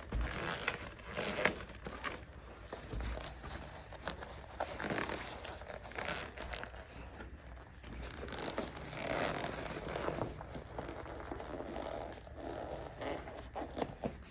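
Pad material being stretched and worked into place by hand: irregular rustling, crinkling and scraping with occasional light clicks.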